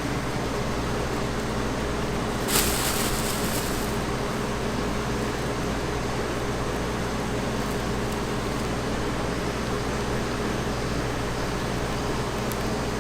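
Steady machine noise with a low hum throughout, like a running fan or ventilation. About two and a half seconds in there is a sudden sharp sound, followed by a short high hiss.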